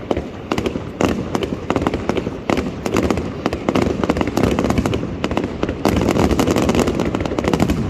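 Fireworks display going off: a continuous barrage of rapid crackling reports over a low rumbling, growing denser and louder over the last couple of seconds.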